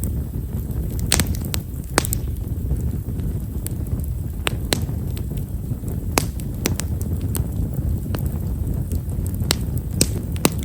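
Wood fire burning split himeshara (tall stewartia) firewood: a steady low rush from the flames with small, sharp pops scattered irregularly, about one a second. The crackle is fine and quiet, typical of this wood.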